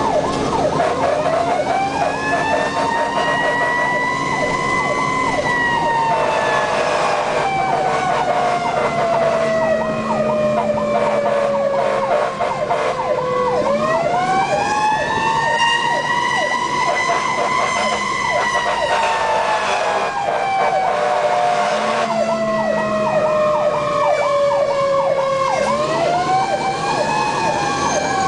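Fire engine siren wailing in slow rise-and-fall sweeps, several seconds each, with a second, faster wavering siren running beneath it throughout.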